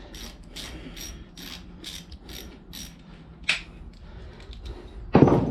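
Socket ratchet clicking steadily, about three clicks a second, as a 13 mm drain bolt is backed out of a motorcycle engine's crankcase. A louder burst of sound comes near the end.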